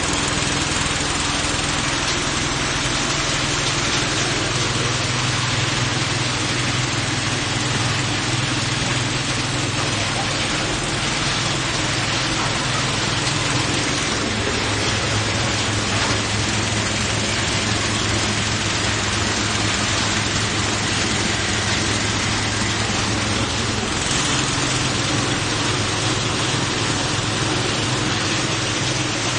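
Coconut husk decorticating machine running steadily: a constant low drone with a dense rushing noise over it.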